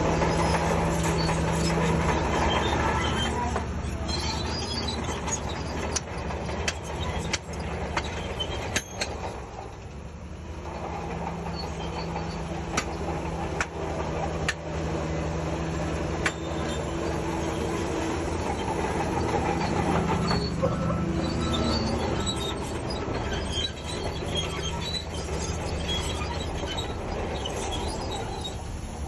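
Crawler bulldozer's diesel engine working steadily under changing load, with its steel tracks clanking and squealing and sharp metallic clanks now and then.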